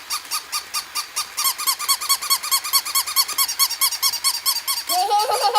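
Puppy yips, short and squeaky, repeated very evenly about six times a second. Near the end, a different squeal comes in with a sliding pitch.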